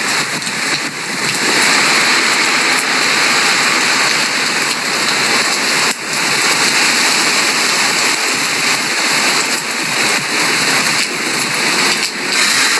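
Heavy rain pouring down: a loud, steady hiss of rain with a brief dip about six seconds in.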